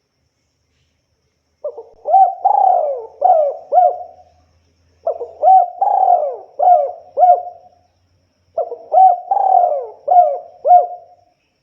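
Spotted dove cooing: three phrases of four or five coos each, the first starting about two seconds in and the others following about three and a half seconds apart.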